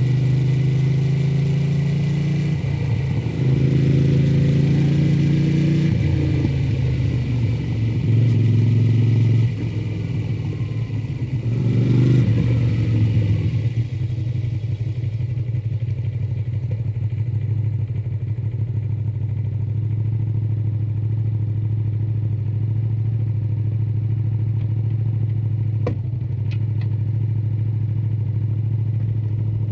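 Honda VTR250's V-twin engine through its stock muffler, changing pitch in steps with throttle and gear changes for about the first half, then settling into a steady idle. Two small clicks come near the end.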